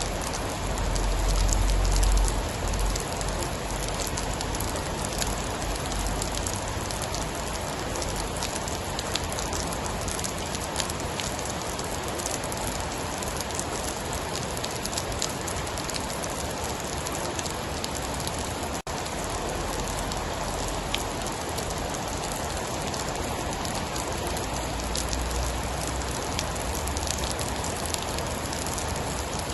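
Steady heavy rain falling on a surface, an even hiss scattered with sharp drop ticks. A low rumble swells in the first couple of seconds and returns faintly near the end.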